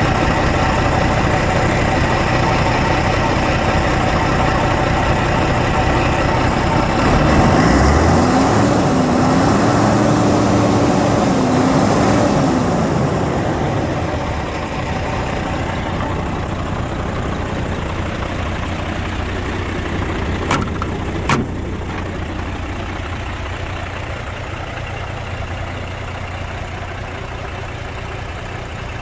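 MAN 26.361 truck's six-cylinder diesel engine idling, revved up once for several seconds about a quarter of the way in and let back down, then idling steadily. Two sharp clicks a little past two thirds of the way through.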